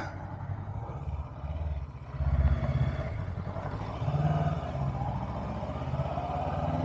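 Honda CB500X parallel-twin motorcycle engine running at a low, pulsing idle, swelling briefly twice with light throttle.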